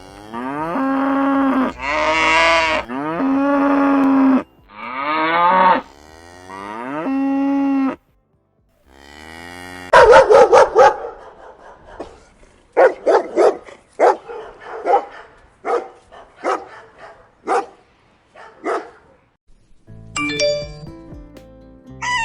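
Cows mooing: five long drawn-out calls one after another. After a short break come a loud call and then a run of short, quickly repeated animal calls.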